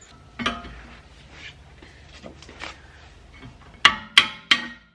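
Light clinks of metal tools being handled, then, near the end, three sharp ringing blows of a hammer on steel, about three a second.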